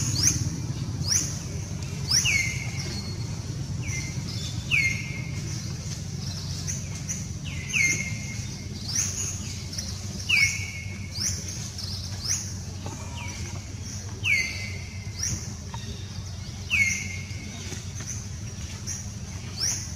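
A bird chirping over and over, about once a second, each call a quick rising sweep followed by a short falling note, over a steady low rumble.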